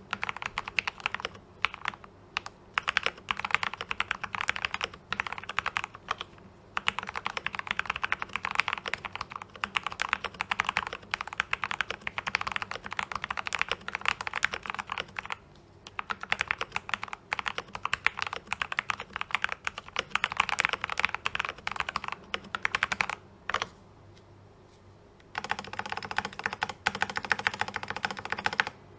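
Continuous fast typing on an 84-key mechanical keyboard with Gateron brown tactile switches, a dense run of key clacks that breaks off briefly about halfway and again for about two seconds near the end.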